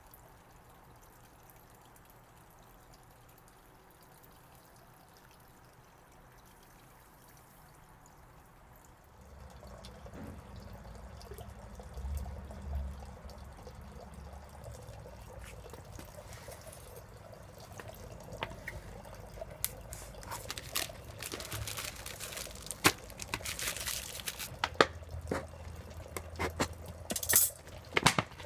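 Water trickling and dripping in a 3D-printed hydroponic drip system, starting about nine seconds in over a low hum. Sharp drips come more often near the end.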